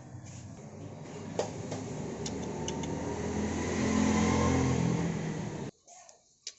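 An engine running, growing louder and rising in pitch over about four seconds, then cut off abruptly near the end.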